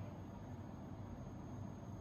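Hyperjuice charger giving off a steady high-pitched whine while charging a laptop, over low background noise. This whine is a fault of this charger: another charger on the same cable does not make it.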